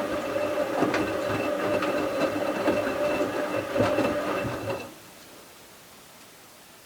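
Bauknecht WA 7778 W washing machine tumbling a load of towels: the brushed drive motor whines steadily under rattling and clicking from the turning drum, then stops suddenly about five seconds in, leaving a faint hum. The drum bearing is already worn, though not yet badly.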